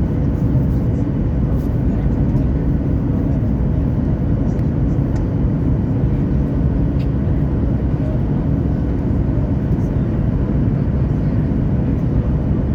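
Steady low rumble and rush of a Boeing 737 airliner's jet engines, with a faint steady hum running through it.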